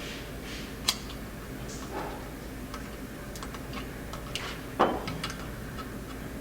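Small clicks and taps of carburetor parts and tools being handled on a workbench, with a sharp click about a second in and a louder knock near five seconds, over a steady low hum.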